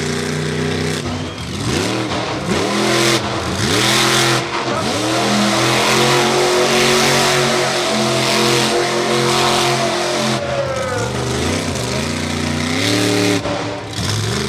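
Race car engines running hard. Their pitch drops and climbs back up several times as the cars lift off and accelerate again, with more than one engine audible at once.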